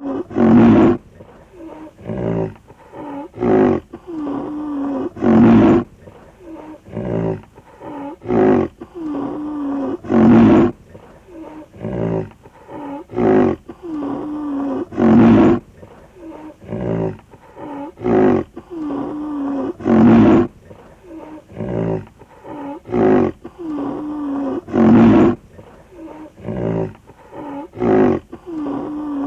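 Rhinoceros calling: a loud, deep call about every five seconds with shorter calls in between, the same sequence repeating over and over.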